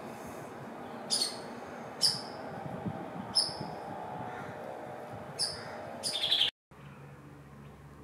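A bird giving short, sharp, high calls, about five in all and spaced unevenly, over steady low background noise. Near the end the sound drops out abruptly, and a quieter low hum follows.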